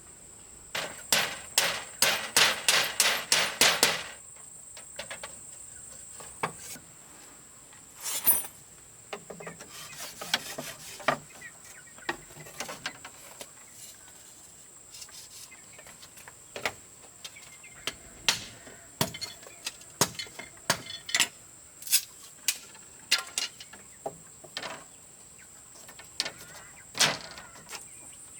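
Hammer blows on wood: a quick run of strikes, about four a second, for about three seconds near the start, then scattered single knocks. A steady high insect drone runs underneath.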